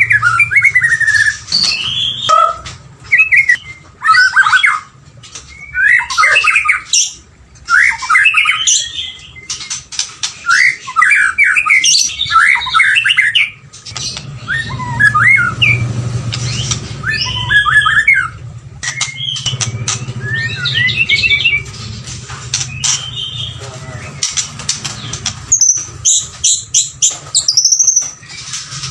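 White-rumped shama singing: a string of varied phrases of quick whistled and chattering notes, broken by short pauses, over a faint low hum.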